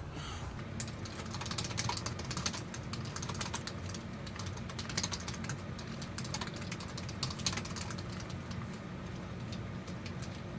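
Typing on a computer keyboard: a steady run of quick, irregular key clicks.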